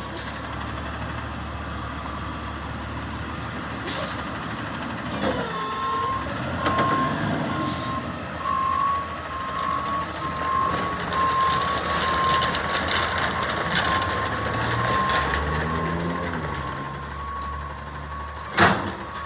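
Garbage truck engine running with its reversing alarm beeping in a steady repeating tone, starting about five seconds in. A short, sharp burst, likely from the air brakes, comes near the end.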